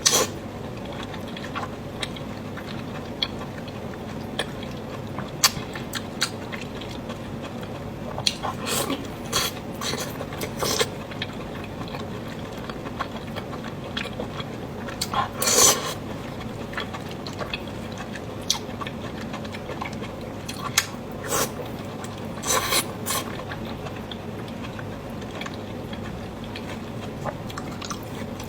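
Close-miked eating sounds: chewing lamb intestine noodles, with scattered short wet clicks and mouth smacks over a steady background hiss, a few louder ones around the middle and near the end.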